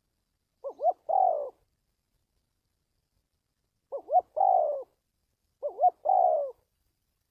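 Spotted dove cooing: three phrases a few seconds apart, each two short rising notes followed by a longer falling coo.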